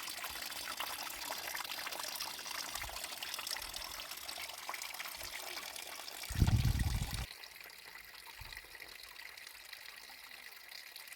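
Water running and trickling, with a brief loud low rumble about six and a half seconds in, after which the water sound turns quieter.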